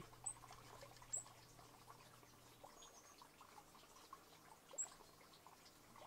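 Near silence: faint outdoor ambience with three very short, very high-pitched calls from small birds, spread across the few seconds.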